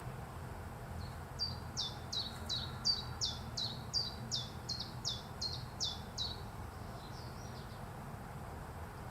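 A small bird calling a run of about thirteen high notes, each falling sharply in pitch, at about two or three a second for some five seconds, followed by a few fainter notes, over a steady low background rumble.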